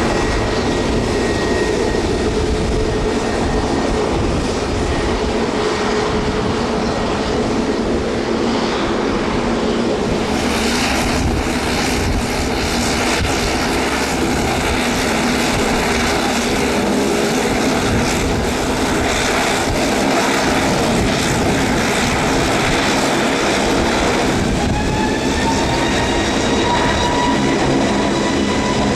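Airbus A320neo jet engines running, a loud steady noise with a low hum. About 25 seconds in, a whine rises in pitch and then holds as the engines spool up.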